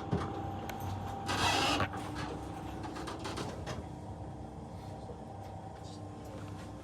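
Passenger train's steady mechanical hum, with a short loud hiss about a second and a half in.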